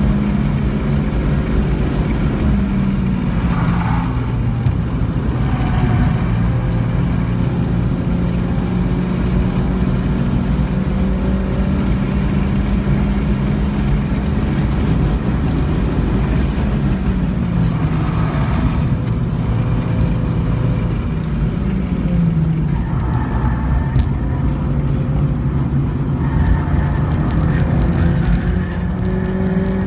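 Acura ILX engine pulling hard at speed, its pitch dipping and climbing again several times as the car shifts, brakes and accelerates, over steady road and wind noise.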